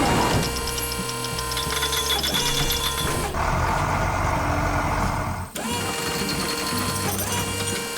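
A small motor-like whirring with rapid ticking, in two stretches with a change a little after three seconds in.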